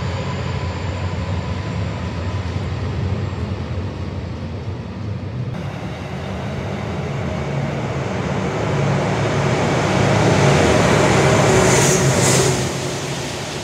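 A JR Freight DF200 diesel-electric locomotive hauling a container freight train passes close by in the second half, loudest just before the end, then the container wagons run by. Before an edit about five seconds in, a KiHa 261 series diesel express train is heard arriving.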